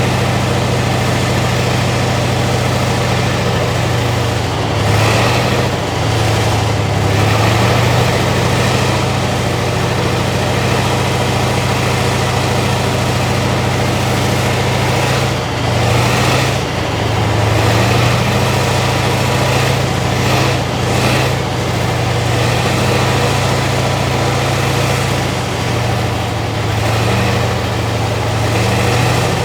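T-72M1 tank's V-12 diesel engine running at a steady idle, with its speed wavering briefly a few times.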